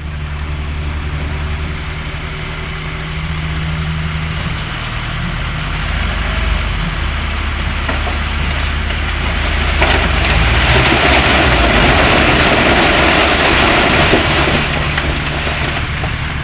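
Heavy diesel engine of a construction machine running steadily. About ten seconds in, a louder rushing noise joins it for roughly five seconds, then dies away.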